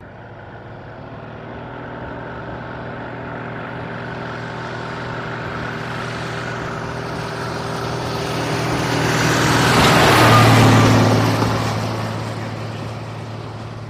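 A truck engine driving past: it grows steadily louder, peaks about ten seconds in with a drop in pitch as it passes, then fades away.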